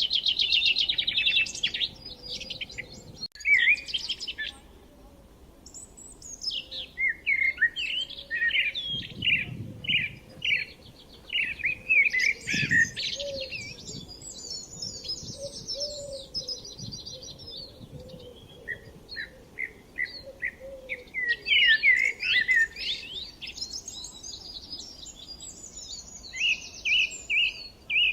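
Small birds chirping and trilling in quick runs of notes, with a few short lulls between bouts.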